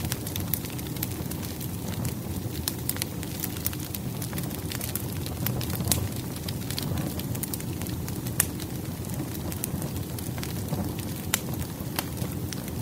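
Firewood burning in a fireplace: a steady low rush of flame with frequent sharp crackles and pops, a few of them louder, such as one about six seconds in.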